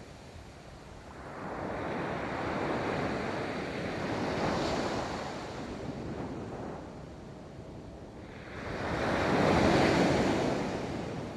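Ocean waves breaking and washing up a beach: one surge builds about a second in and eases off, then a louder one swells and fades near the end.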